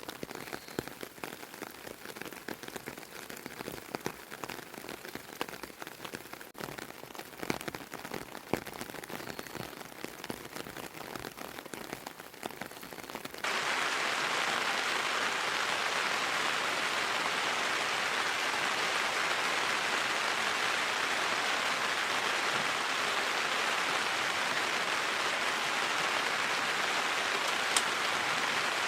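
Rain falling, with separate drops tapping on a surface, then about halfway through it changes abruptly to a louder, steady, dense patter of heavier rain.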